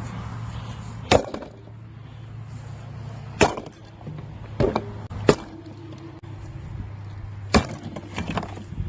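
Splitting maul striking the back of a mini fridge, five sharp blows one to two seconds apart, breaking through the fridge's back panel.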